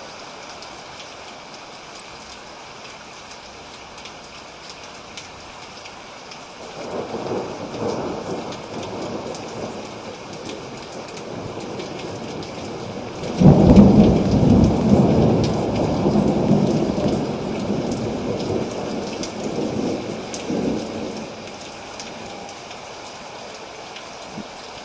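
Steady rain falling, with thunder: a low rumble builds about a quarter of the way in, then a sudden loud clap a little past halfway rolls on and fades away.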